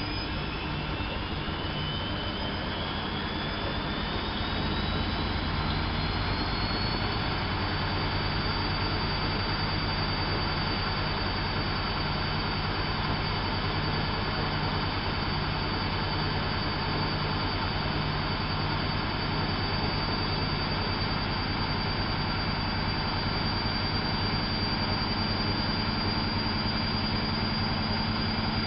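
Bauknecht WAP 6460 front-loading washing machine running up into its spin: the motor whine rises in pitch over the first several seconds, then holds steady at full spin speed with a constant hum and rush from the turning drum.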